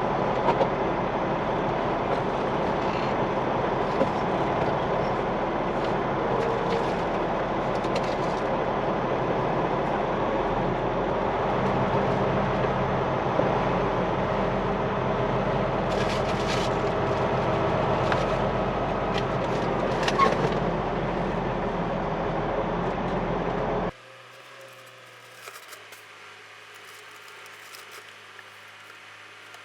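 Cummins X15 diesel engine of a Peterbilt semi truck running steadily while the truck manoeuvres to back into a dock door. The engine sound cuts off abruptly about 24 seconds in, leaving a much quieter background with a few faint clicks.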